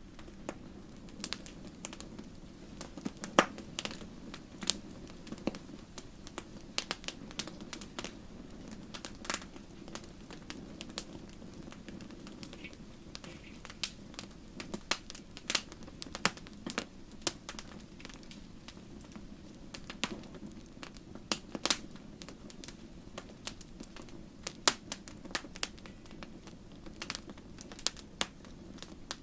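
Wood campfire burning steadily, with frequent sharp irregular crackles and pops over a low, steady rumble of the flames.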